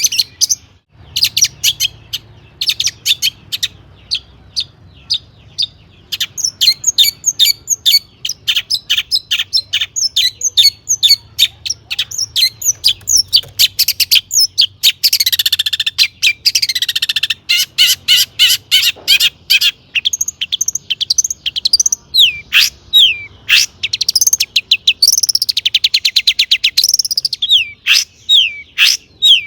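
Long-tailed shrike (cendet) in full, continuous song, a fast varied medley of chattering notes and calls mimicked from other birds. A run of downward-sweeping notes comes about halfway through, and repeated falling whistles come near the end.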